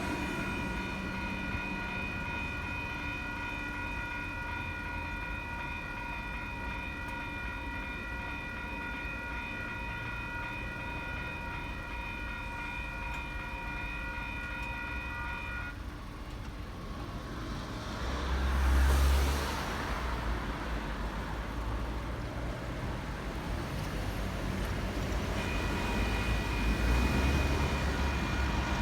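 WCH electronic level-crossing bells ringing steadily with a bright, ringing tone. They stop about halfway through. A few seconds later a brief loud rush with a deep rumble passes, and the bells start again near the end.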